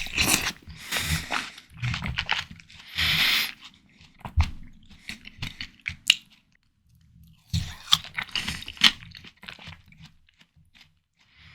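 Close-miked biting and chewing of juicy, ripe watermelon: wet, crunchy bites and mouth sounds. They come in two clusters with a short pause in the middle.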